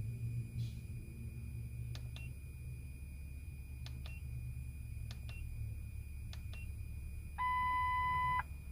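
Buttons on a Creader 619 handheld OBD-II scan tool clicking several times, mostly in quick pairs, then a single steady electronic beep lasting about a second as the stored trouble codes are cleared. A low steady hum runs underneath.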